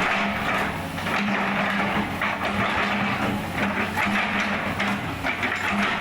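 Heavy diesel engine running steadily, with a constant low hum under a dense mechanical hiss.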